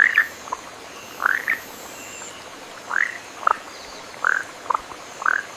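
A frog calling in the rainforest: short, sharp chirps that sweep up and down, repeated every half second to a second and often in pairs.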